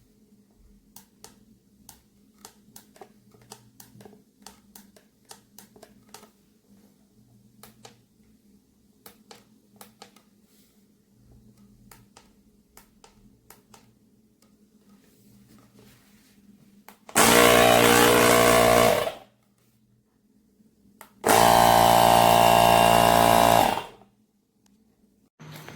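AstroAI L7 portable electric air compressor's motor running in two short loud bursts of about two and three seconds, after a long stretch of faint clicking.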